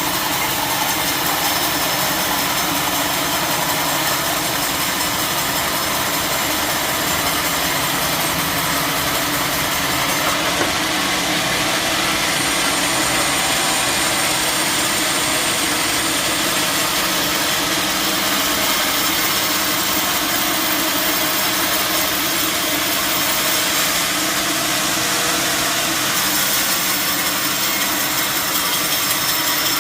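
Sawmill machinery running steadily: a constant engine-like drone with an even hiss over it, with no pauses or knocks.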